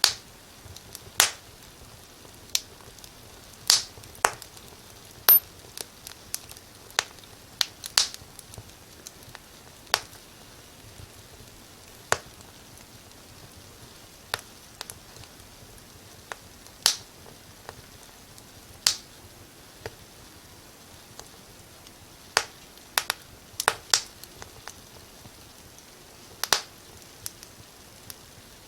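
Wood fire in a fireplace crackling: sharp, irregular pops and snaps, some single and some in quick clusters, over a faint steady hiss.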